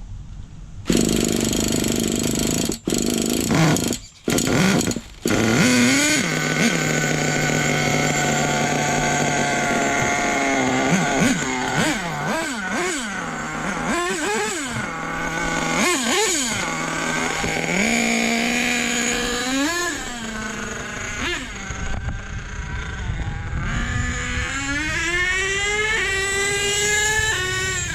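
Small nitro RC truck engine running and being revved repeatedly, its whine rising and falling, with a long climbing rev near the end. It is running lean on the top end. The sound cuts out briefly a few times in the first few seconds.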